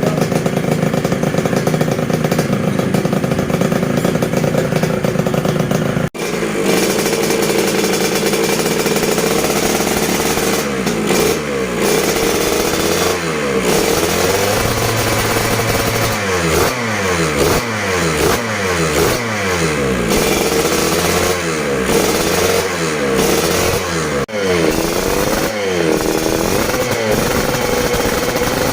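Freshly built Yamaha Mio scooter engine running: it runs steadily for about six seconds, then, after a brief cut, is revved with its pitch rising and falling, in repeated quick throttle blips through the second half.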